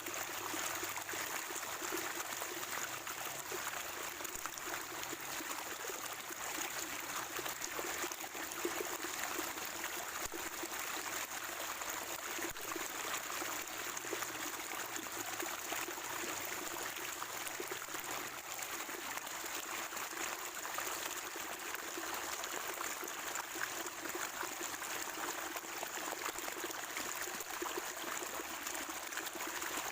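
Natural spring water trickling and gurgling steadily.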